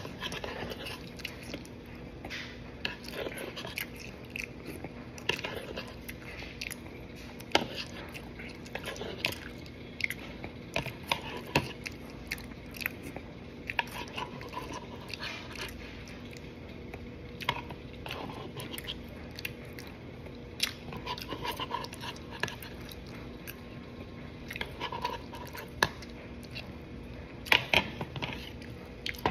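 Close-up chewing and crunching of a mouthful of Captain Crunch cereal with Pop-Tart: irregular crisp crunches with wet mouth sounds between them.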